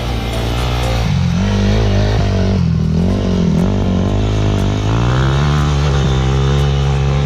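Dirt bike engine revving, its pitch dipping and rising several times, then climbing and holding at higher revs from about five seconds in.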